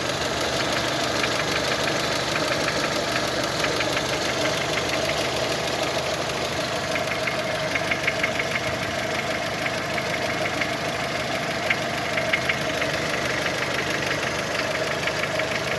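Engine idling with a rapid, even knocking, sharper at moments in the middle and later on: an unexplained knock whose cause the owner is asking about.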